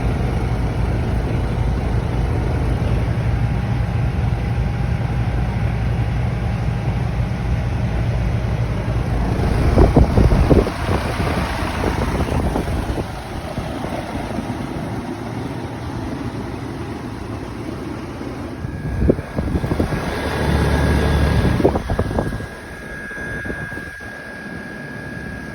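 Outdoor air-conditioner condensing units running, with condenser fan and compressor humming: first a 2012 Rheem Value Series 2.5-ton unit, then, near the end, a 2001 American Standard Allegiance 10 2.5-ton unit, which is quieter and has a thin steady high whine.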